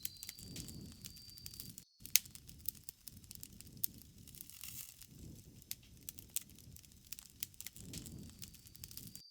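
Bonfire of burning wood crackling, with sharp pops over a low rush of flame that swells and fades every few seconds. A thin steady high insect trill is heard at the start and again near the end, and the sound cuts out for an instant about two seconds in.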